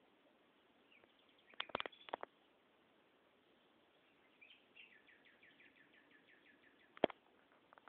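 A bird trilling faintly, a run of quick down-slurred notes repeated about five times a second for a few seconds. A cluster of sharp clicks comes before it and a single click right after it; the clicks are the loudest sounds.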